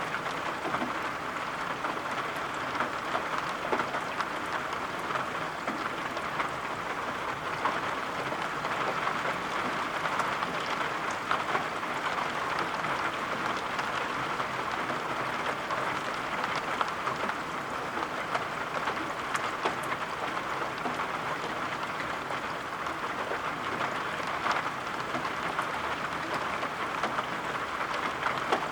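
Steady rain falling, an even hiss with scattered light drop ticks throughout.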